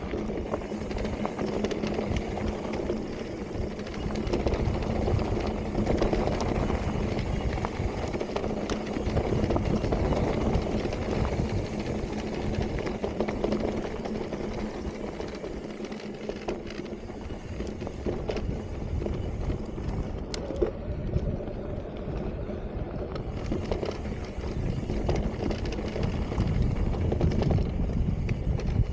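Electric mountain bike being ridden along a dusty, rocky dirt singletrack: a steady rush of tyre and trail noise with scattered small clicks and rattles, and a steady low hum through the first several seconds.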